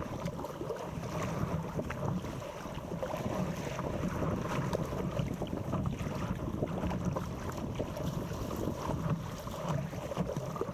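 Wind buffeting the camera's microphone, with water splashing and lapping against an inflatable paddleboard.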